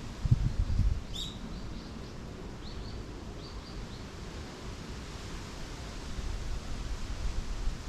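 Small birds chirping in a forest: one sharp high chirp about a second in, then a quick run of short, fainter chirps that stops about halfway. Under it an even hiss of leaves and breeze, with low rumbling wind buffets on the microphone in the first second.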